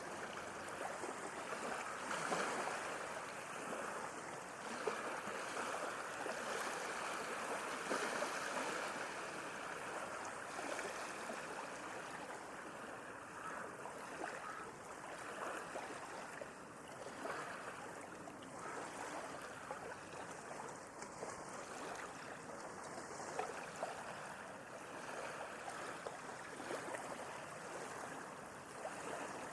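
Sea waves washing continuously on the shore: a steady rush of surf that swells louder over the first several seconds, then eases to a gentler wash.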